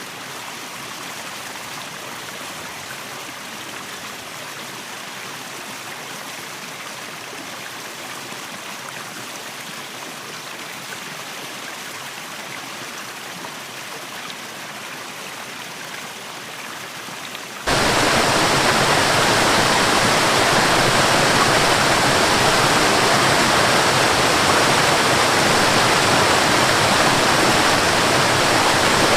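Steady rushing water of a waterfall. About two-thirds of the way through it abruptly becomes much louder and fuller, then carries on steadily.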